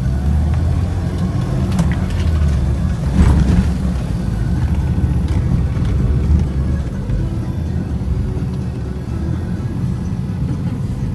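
Off-road SUV engine running steadily under load through snow, with a few knocks and a louder surge about two to three and a half seconds in.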